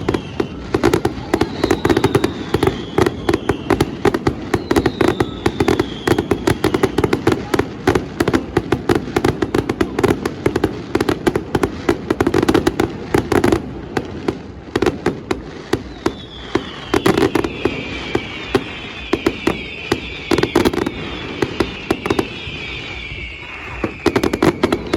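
Fireworks display: a dense, continuous run of bangs and crackles, with high whistles falling in pitch near the start and again through the last third.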